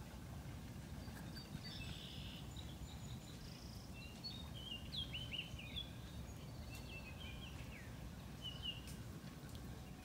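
Small birds chirping in many short, quick calls, most of them from about two to nine seconds in, over a steady low rumble.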